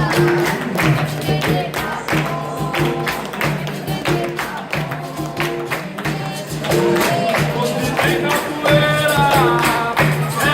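Capoeira roda music: a steady percussion rhythm with a tambourine-like pandeiro, and voices singing that come in stronger about two-thirds of the way through.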